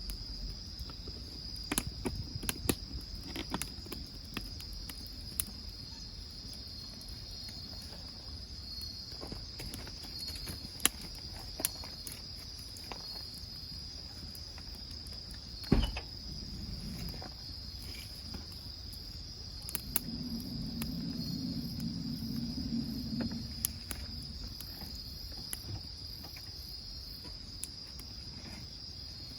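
Crickets trilling in a steady, high-pitched chorus, with scattered sharp crackles and pops from burning firewood in the wood grill; one pop about halfway through is the loudest.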